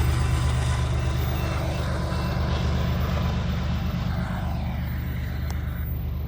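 BNSF container freight train rolling past with a steady low rumble, slowly fading, its higher wheel noise dying away after about two seconds.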